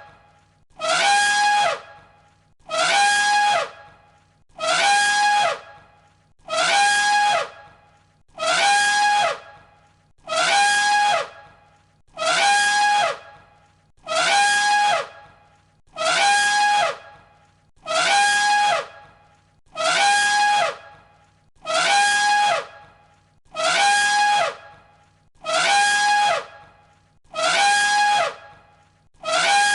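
Elephant trumpeting, one loud, brassy call of about a second repeated identically about every two seconds as a loop. Each call dips in pitch at its end.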